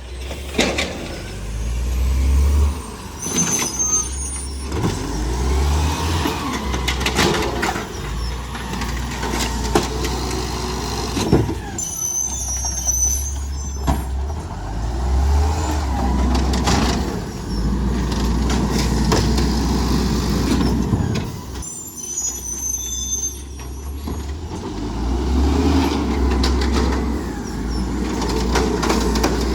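Garbage truck's diesel engine running and revving up and down several times, with short high hissing bursts about three times.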